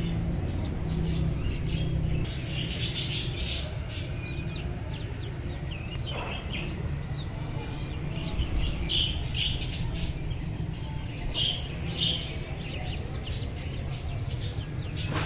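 Budgerigars chirping in many short, high calls, over a steady low hum.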